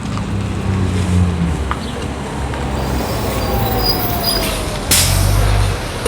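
City street traffic: vehicle engines running and passing, with a slowly falling whine in the middle and a short, loud hiss about five seconds in.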